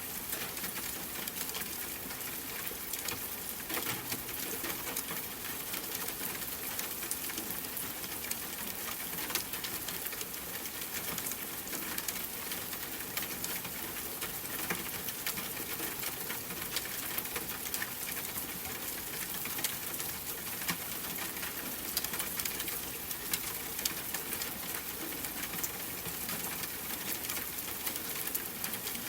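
Steady rain patter outside a window: an even wash of rainfall with many small drop ticks.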